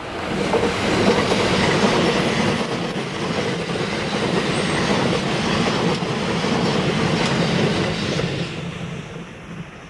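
JR East E353 series limited express electric train passing close by at speed: a steady rush of wheels on rail that builds in the first second, holds, and fades near the end as the last cars go by.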